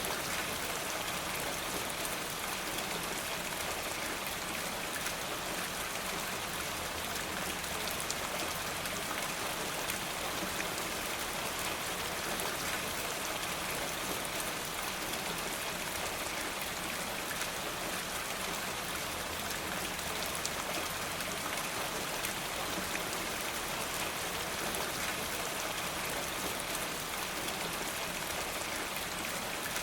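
Steady rain falling, an even hiss that does not change, flecked with the fine ticks of individual drops.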